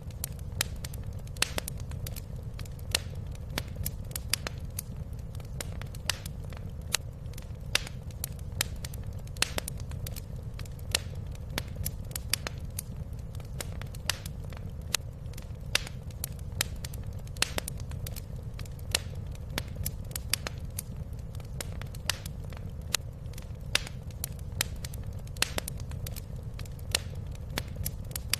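Wood fire crackling in a fireplace: irregular sharp pops and snaps, several a second with a louder one every second or two, over a steady low rumble.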